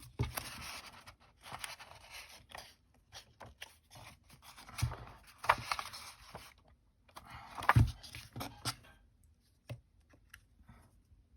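Paper being handled and scraped on a craft table, in irregular scratchy strokes with small clicks, and two louder knocks about five and eight seconds in; the sounds thin out near the end.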